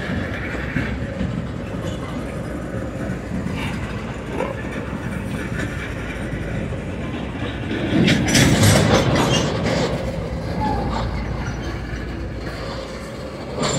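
Train rolling past on the rails, a continuous rumble that grows louder for a second or two about eight seconds in.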